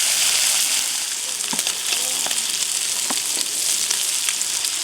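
Food sizzling as it fries: a steady hiss with a few small pops.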